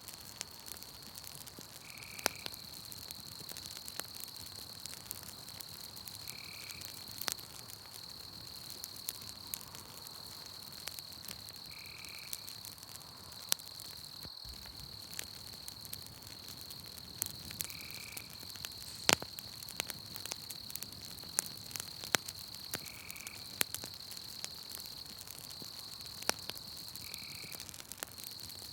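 Campfire crackling with scattered sharp pops, over a steady high-pitched insect trill and a short call that repeats about every five seconds.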